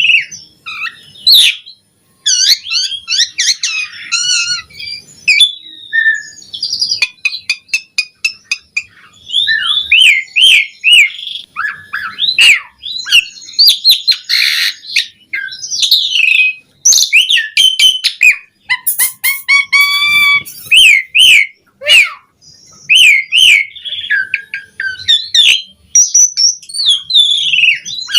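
Asian pied starling (jalak suren) singing a long, varied song with hardly a pause: a mix of whistled notes, rising and falling sweeps, harsh chirps and quick runs of clicks. It is the full, vigorous song that keepers play to draw captive starlings into singing.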